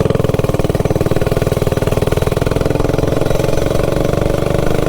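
Minibike's Stage 3 clone single-cylinder four-stroke engine running steadily under way, its exhaust note a rapid even patter. The header pipe has its baffle cover fitted, which makes it a little quieter.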